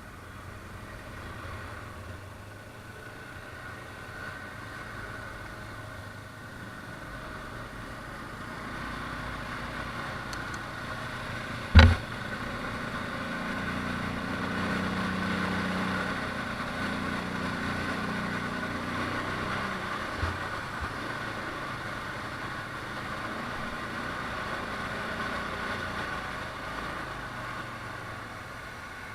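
ATV engine running steadily, growing louder through the middle and easing off toward the end. A single sharp knock about twelve seconds in is the loudest sound.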